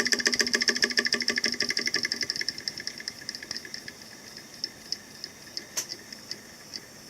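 Homemade motor built from hard disk drive parts, clicking rapidly and evenly at first, then slowing and fading as it winds down. By the end only single clicks come, about two a second, with one louder click near the end.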